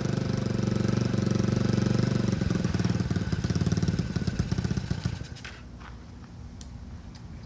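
Small single-cylinder 70cc ATV engine on a motorized Schwinn Stingray bicycle running steadily, then turning uneven and choppy about two and a half seconds in before fading out about five seconds in. A few faint clicks follow near the end.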